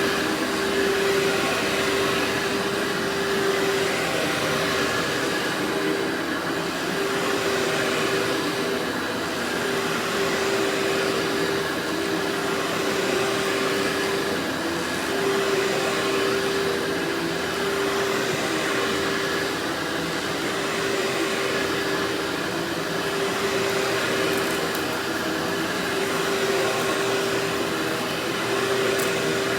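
Workhorse vacuum cleaner running continuously: a steady motor whine over rushing airflow noise, with the loudness swelling and easing slightly as it works.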